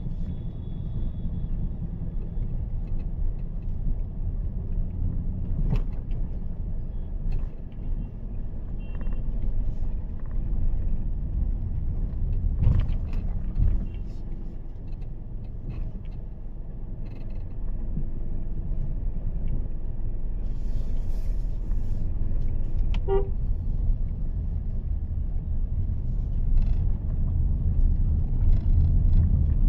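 Low steady in-cabin rumble of a Mahindra XUV 3XO's 1.2-litre turbo-petrol three-cylinder engine and tyre noise while driving, with a few faint clicks. A short car-horn toot sounds about two-thirds of the way through.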